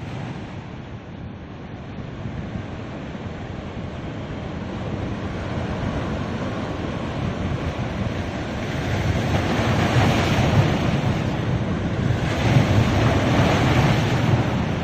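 Sea waves on a beach: a continuous wash of surf that swells louder twice in the second half as waves break and run up.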